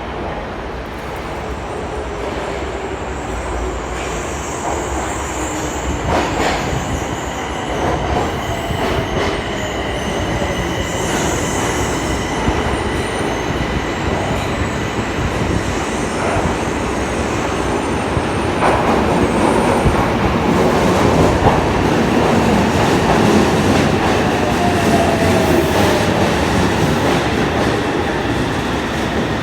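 Yokohama Municipal Subway Blue Line train running between stations: steady rumble of wheels on rail with faint clicks over joints, a thin wheel squeal and electric motor tones that glide in pitch. The sound slowly grows louder through the stretch.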